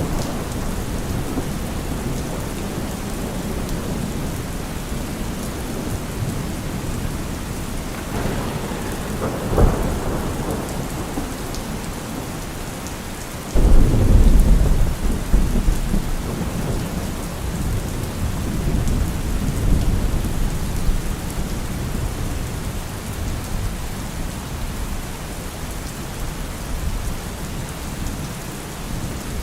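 Steady heavy rain with thunder rumbling. About 13 seconds in, a sudden loud crack of thunder booms low and rolls away over the next few seconds.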